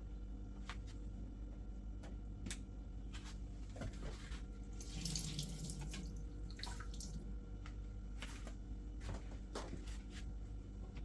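Water running briefly from a tap about five seconds in, among scattered clicks and knocks of items being handled, over a low steady hum.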